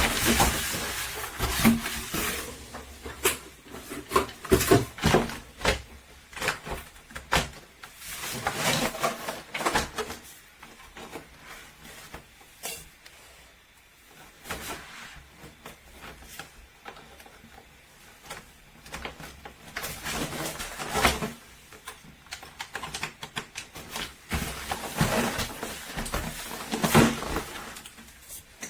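Irregular knocks and clattering that come in clusters, loudest near the start and again near the end, with quieter stretches between.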